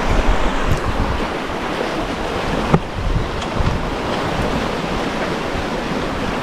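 Wind buffeting the microphone over the rush of water along the hull of a sailboat under sail, with no engine running. A single brief click about three seconds in.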